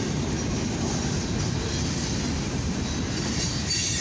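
Freight cars of a mixed freight and steel train rolling past at about 24 mph: a steady rumble of steel wheels on rail.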